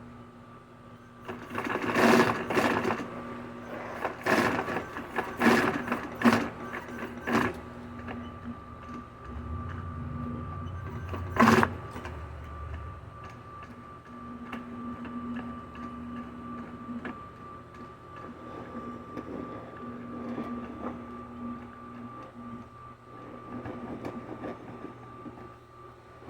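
Industrial sewing machine stitching the vinyl of an inflatable bounce house in a series of short runs, loudest over the first several seconds, with one sharp louder burst near the middle and softer runs after.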